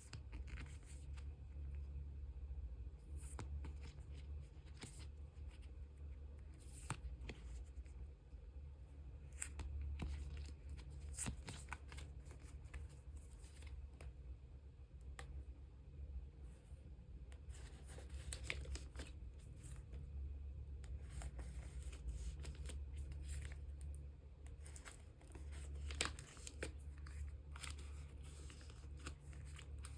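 Photocards and clear plastic card sleeves being handled and slid into binder sleeves: soft plastic rustling and crinkling with scattered light clicks and taps, over a steady low hum.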